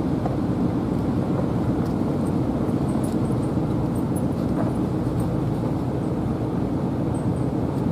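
Vehicle driving along a road: a steady low rumble of engine and tyres.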